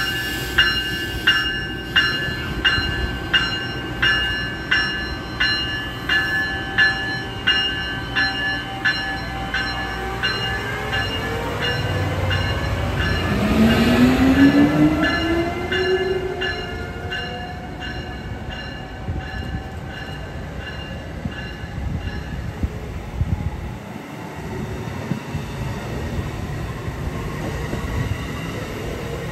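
Amtrak ACS-64 electric locomotive moving slowly away, its bell ringing about once a second for the first half. Around the middle a rising whine comes from the drive as it gathers speed, and then the coaches roll past with steady wheel and rail noise.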